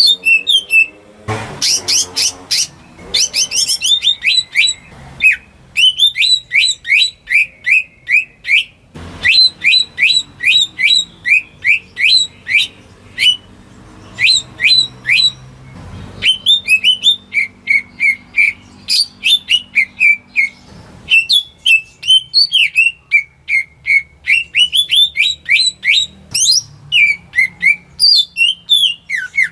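Cucak ijo (green leafbird) singing a long, varied song of rapid, high whistled and chirping notes in quick runs, broken by short pauses.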